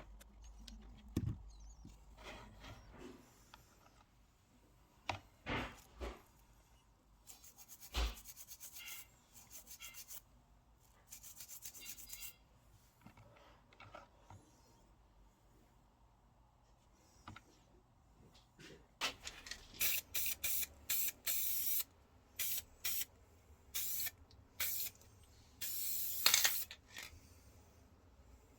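Hand tool work on a small metal diecast model: scattered clicks and taps, then runs of quick rubbing and scraping strokes. The strokes come thickest and loudest in the last third.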